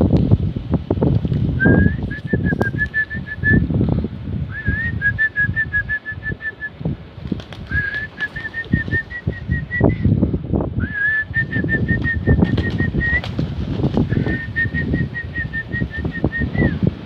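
Strong gusting wind buffeting the microphone, with a high, slightly warbling whistle repeated about six times, each one or two seconds long.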